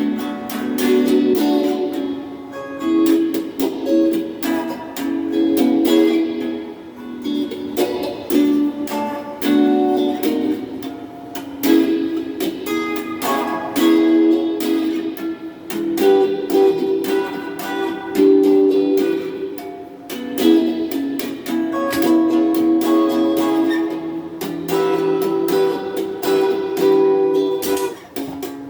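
Donner Q1 HSS Strat-style electric guitar played clean through a small Cahaya amp, picking chords and single notes that ring on between attacks. It runs through a phaser pedal and a hall reverb pedal.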